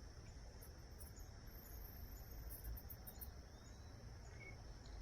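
Faint, steady high-pitched insect trill over a low outdoor rumble.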